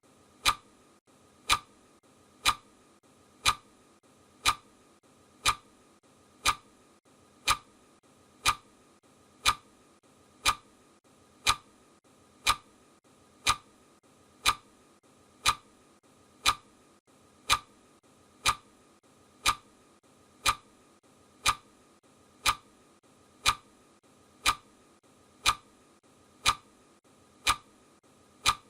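Clock ticking sound effect counting off seconds: one sharp, even click every second, each tick alike.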